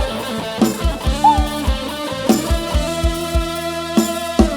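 Live Isan pop band music from a rot hae sound-truck stage: an instrumental break with a plucked-string guitar melody and held keyboard notes over a steady kick-drum beat. The beat drops out briefly about four seconds in, then comes back.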